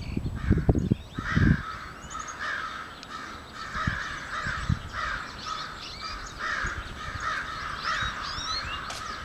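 Crows cawing in a steady run of harsh calls, about two a second, warning calls at a person's presence, with small birds chirping thinly above them. A few low thumps in the first second and a half.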